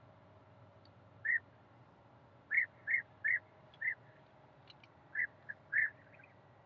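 Short high chirps or squeaks from a small animal or bird, about ten of them, some single and some in quick runs of three, over a faint steady low hum.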